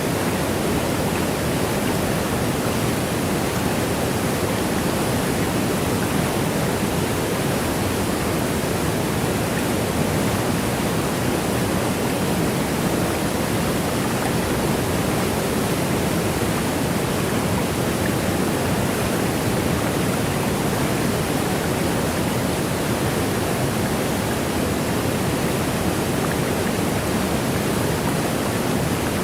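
Waterfall: a steady, unchanging rush of falling water, an even wash of noise with no breaks or separate splashes.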